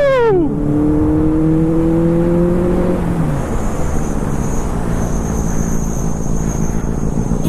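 Superbike engine: a quick rev that falls away in the first half second, then a steady pull with the pitch slowly rising for about three seconds. After that the engine tone stops and an even rushing wind and road noise is left.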